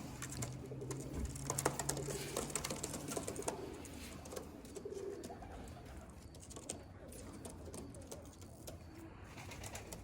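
Tippler pigeons cooing softly, with scattered light clicks and knocks in the first few seconds.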